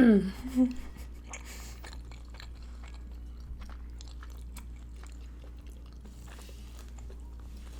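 Close-miked chewing of food, with wet mouth clicks and small crunches scattered through, over a steady low electrical hum.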